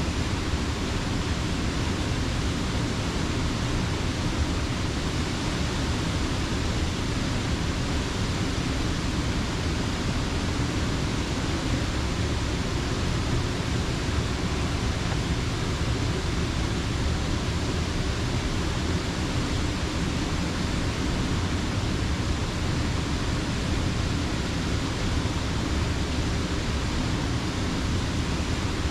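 Water of Slippery Rock Creek pouring over the mill dam, a steady, unbroken rush with a deep rumble underneath.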